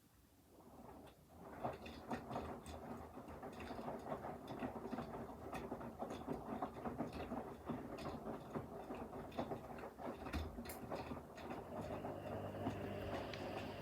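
Front-loading washing machine running a wash: after a near-quiet pause the drum starts turning about a second and a half in, with a dense run of small clicks and rattles from the tumbling load, and a steadier motor hum joins near the end.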